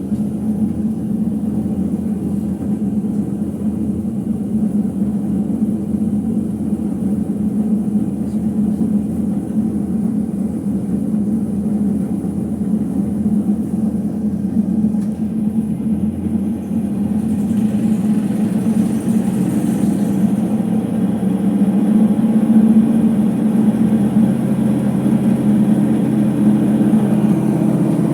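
Ipso HF 65 commercial washer-extractor in its final spin: the drum and motor run with a steady low rumble that slowly gets louder and rises a little in pitch near the end. The rumble comes from worn drum bearings.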